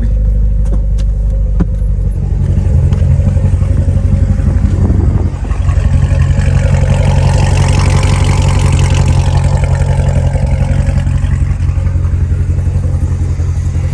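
Warm C7 Corvette Z06's supercharged 6.2-litre V8 running and being revved through its exhaust. The revs build a few seconds in, drop briefly, and are held highest for a stretch in the middle before easing back.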